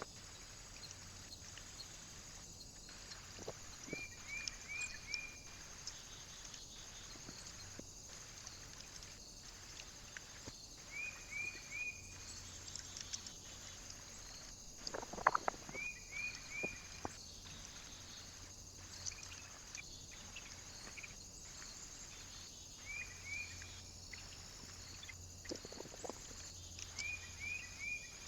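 A small bird calling over and over in short runs of three or four quick high chirps, every few seconds. A few sharp taps or knocks sound between them, the loudest about fifteen seconds in, over a steady faint hiss.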